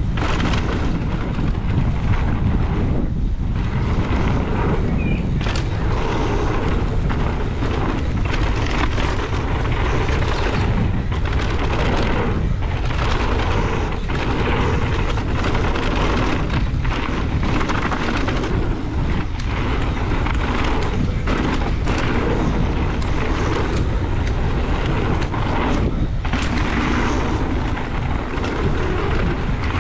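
Heavy wind noise buffeting the microphone while riding a mountain bike fast down a trail, a loud rumble that surges and dips unevenly.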